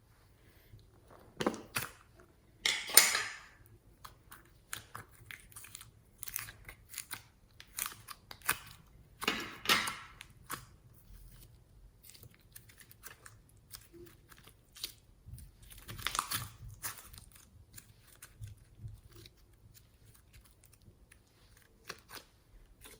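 Hands squishing and mixing slime: irregular sticky crackles and clicks, with a few louder squelching bursts.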